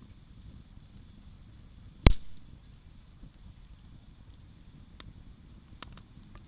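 Wood bonfire burning with a low steady rumble; one loud sharp pop of burning wood about two seconds in, then a few small crackles near the end.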